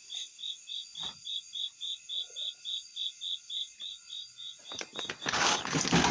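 A cricket chirping steadily, about three to four pulses a second. Near the end a loud burst of rustling and scraping takes over.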